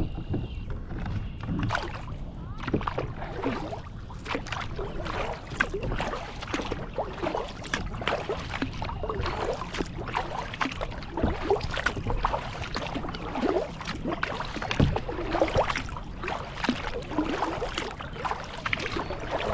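Kayak paddling: the paddle blades dipping and splashing in the water, with irregular drips and trickles, over a steady low rumble.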